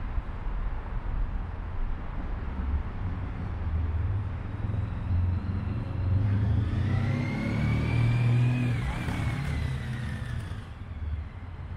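Honda ST1300's V4 engine breathing through cut-down Ducati 900 mufflers, running under way with a low rumble. It grows louder about halfway through as it accelerates, with a whine that rises and then falls, then settles back.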